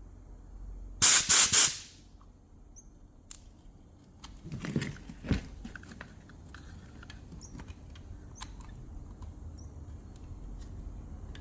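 Three short, loud bursts of pressurised spray hiss about a second in, followed by a few light clicks and knocks of parts being handled.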